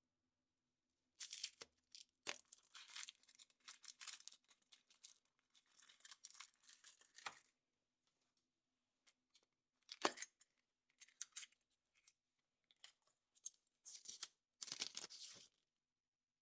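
A thin wrapper being torn and crinkled open by hand in irregular bursts, with one sharp click about ten seconds in.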